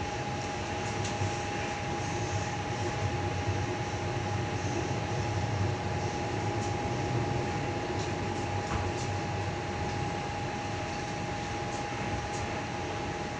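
Interior running noise of a Tangara electric train in motion: a steady low rumble and hum with a constant high whine, and scattered light clicks and rattles.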